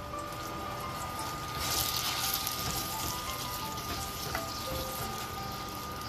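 Onion and garlic paste sizzling in hot oil in a steel pot as it is stirred with a wooden spatula; the sizzle swells briefly about two seconds in.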